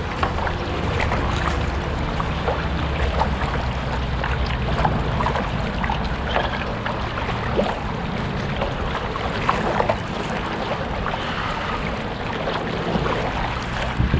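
Small boat's motor running steadily on the water, with a low hum under splashing water and wind noise.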